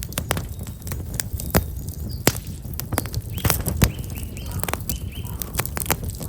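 Black locust firewood burning in an open fire, with frequent sharp crackles and pops over a low rumble. A small bird chirps a short run of repeated notes about halfway through.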